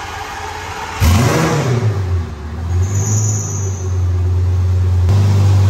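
Twin-turbo Lamborghini Gallardo V10 starting up about a second in: it catches with a quick rev flare that rises and falls, then settles into a steady idle, growing a little louder near the end.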